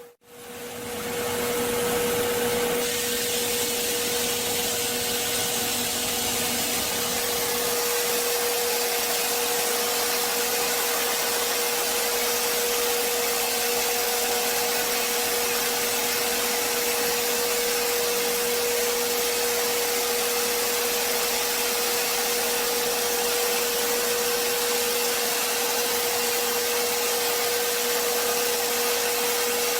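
Wood-cutting machine running steadily: a constant hum-like tone over an even rush of machine noise, after a brief dropout at the very start.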